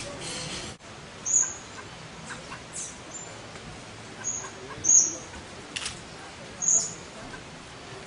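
Small songbirds giving short, high chip calls, about five spread over several seconds, over a steady background hiss.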